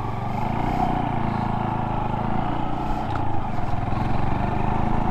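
A Honda Monkey 125's single-cylinder four-stroke engine running steadily while the motorcycle rides along.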